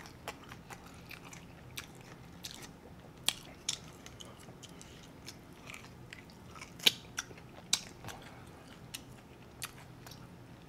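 A person chewing and biting into a fried chicken wing, with scattered crunches and clicks. The sharpest crunches come about three seconds in and twice around seven seconds in.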